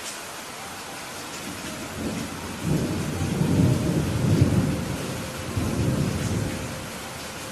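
Steady rain hiss with a roll of thunder that starts about two seconds in, swells to its loudest in the middle and dies away near the end.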